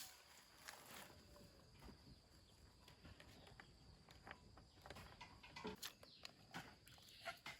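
Near silence with faint scattered clicks and light knocks, a few slightly louder ones near the end.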